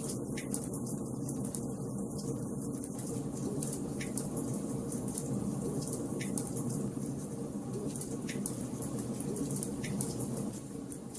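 Wood fire burning in a fireplace: a steady rushing hiss with frequent small crackles and a few sharper pops spread through.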